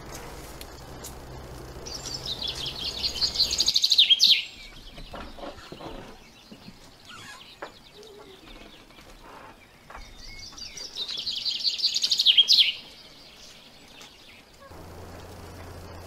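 A songbird singing two phrases about eight seconds apart. Each is a rapid trill of high notes that grows louder for about two seconds and ends in a quick downward flourish. A faint steady low hum and hiss lies under it at the start and again near the end.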